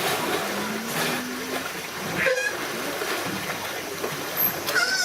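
Water splashing and sloshing in a pool over a steady background hubbub.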